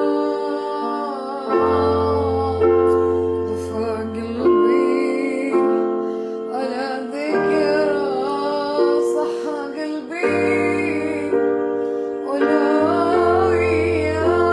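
Music: a woman singing a slow melody over sustained keyboard chords and a low bass, the chords changing every second or two.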